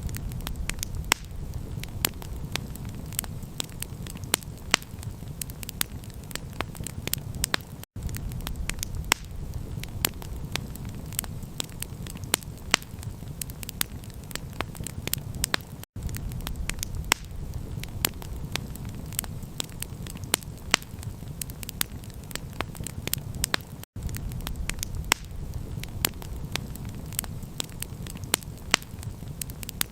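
Campfire crackling, with frequent sharp, irregular pops over a steady low rumble. The sound drops out briefly about every eight seconds.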